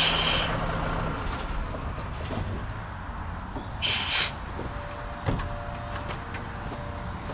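Dump truck's diesel engine running steadily, with short hisses of air from the air brakes, one right at the start and another about four seconds in.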